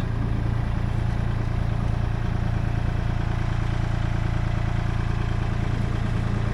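An engine idling steadily at an unchanging speed.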